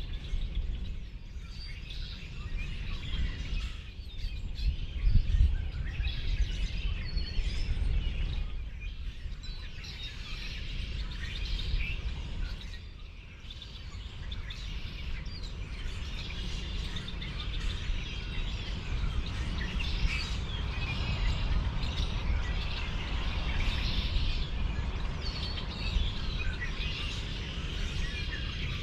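Many small birds chirping and calling in a dense, continuous chorus over a steady low rumble, which swells briefly about five seconds in.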